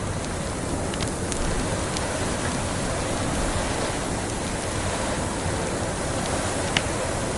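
Crackling wood fire over a steady rushing blizzard-wind ambience: a few sharp pops and crackles, the loudest near the end.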